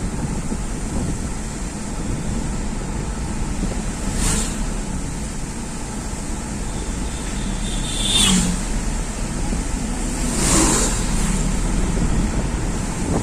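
Steady road and engine noise of a vehicle driving along a highway, with three brief louder whooshes about four, eight and ten and a half seconds in.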